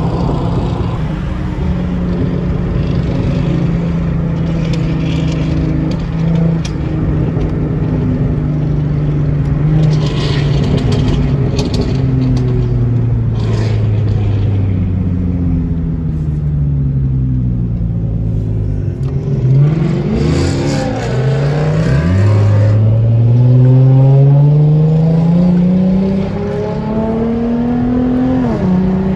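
Car engines running and revving. The engine pitch sinks slowly for several seconds, jumps up twice about two-thirds of the way through, then climbs steadily for about six seconds as a car accelerates.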